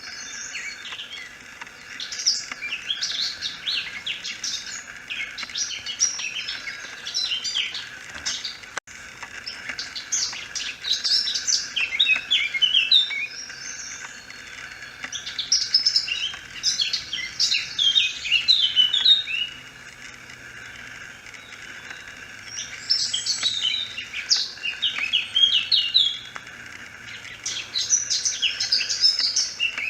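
Songbirds singing in phrases of a few seconds each, fast runs of high notes separated by short pauses.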